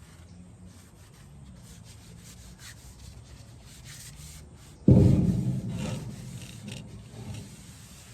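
A rag wiping used engine oil along a wooden tool handle, a soft rubbing, then about five seconds in a sudden heavy thump that dies away over a second or so.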